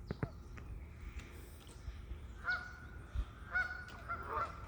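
Waterfowl calling: a few short calls in the second half.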